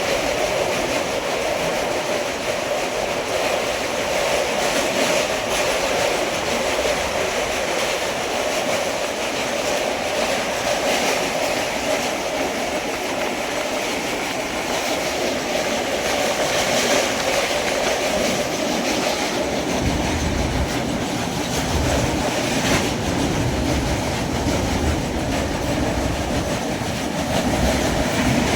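Passenger train running along the track, a steady rumble and rattle of the coaches on the rails; the low rumble grows deeper and stronger about two-thirds of the way through.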